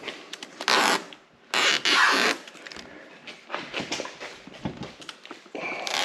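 Backing film being peeled off the hood protector's adhesive tape: two quick ripping peels, about a second in and again near two seconds, then quieter scratching and handling.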